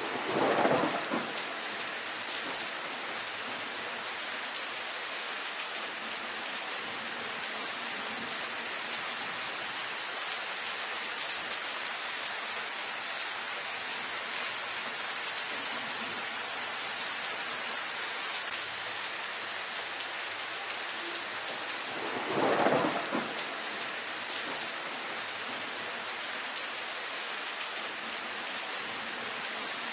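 Steady rain falling on leafy foliage, an even patter. Twice, just after the start and again about 22 seconds in, a louder swell of noise rises and fades over about a second and a half.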